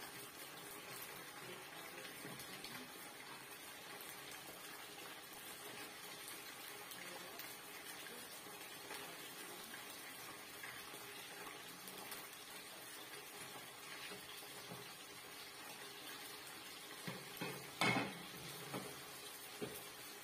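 Clams in their shells frying in a hot wok with a steady faint sizzle while a wooden spatula stirs them. Near the end come a few knocks of the spatula and shells against the pan, one of them much louder.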